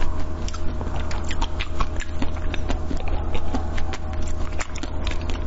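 Close-miked chewing and biting of a soft food: many small wet mouth clicks and smacks, over a steady low hum.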